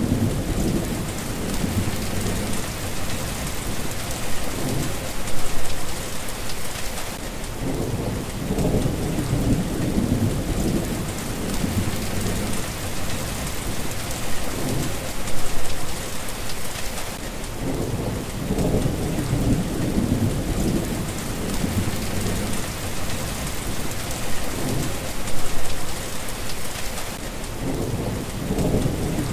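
Steady rain falling, an even hiss, with low rolls of thunder that swell and fade about every ten seconds.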